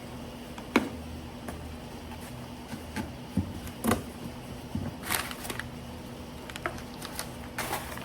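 A cardboard box of exhaust parts being opened and unpacked: scattered clicks and knocks, with two short bursts of rustling packing material, one about five seconds in and one near the end, over a faint steady hum.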